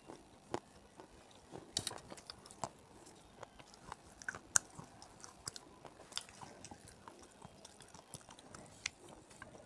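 Close-miked chewing of hard, brittle 'stone' pieces. Irregular sharp crunches and clicks come a second or so apart, the loudest nearly two seconds in and about four and a half seconds in.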